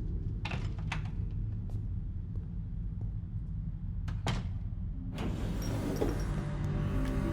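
A steady low rumble with a few sharp clicks, the loudest about four seconds in; about five seconds in, background music starts over it.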